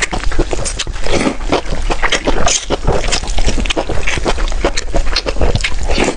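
Loud, close-miked chewing of food: a dense, irregular run of wet smacks and crunchy clicks from a person eating.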